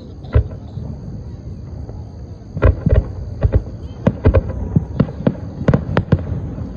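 Aerial fireworks bursting: a single sharp bang about half a second in, then a rapid string of bangs and crackles from about two and a half seconds to six seconds in.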